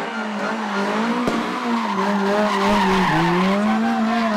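Rally car engine running hard at high revs, with tyres skidding as the car slides. The engine note dips briefly about three seconds in, and there is a sharp click a little over a second in.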